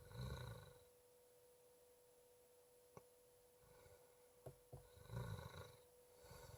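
Near silence: a faint steady hum with a few soft ticks and two brief low rustling swells, one at the start and one about five seconds in.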